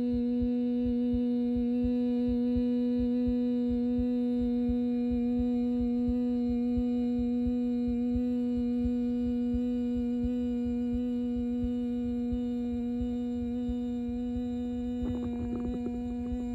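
One steady droning note with many overtones, held unbroken at a fixed pitch, over a low fluttering rumble.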